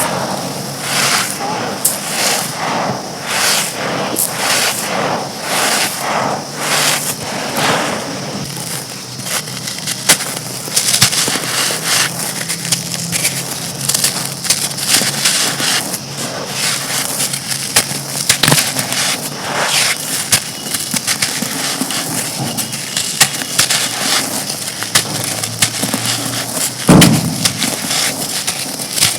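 Dry, brittle black stone-like bricks crumbling and crunching. Steady crunches about once a second give way to continuous fine crackling with sharp snaps, and one heavier crunch comes near the end.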